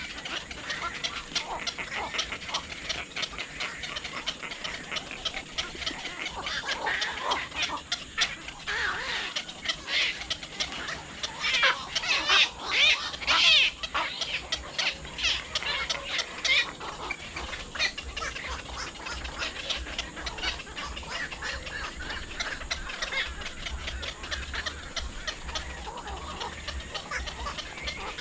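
A flock of birds calling over and over, many short calls overlapping, with a louder bout of calls about halfway through.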